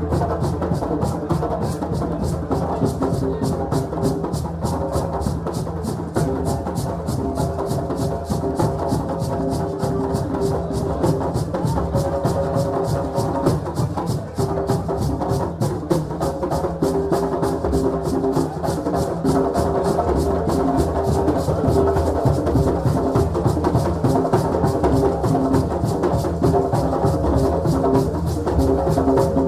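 West African celebration drumming: a fast, dense run of percussion strokes with held pitched notes sounding over it and a steady low hum beneath.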